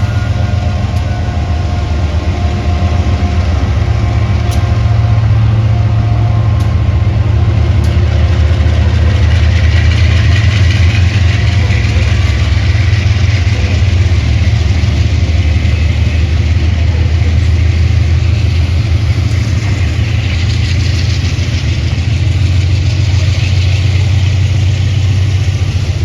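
Ferrosur diesel locomotives running, a loud steady low engine drone with a few sharp clicks about five and seven seconds in.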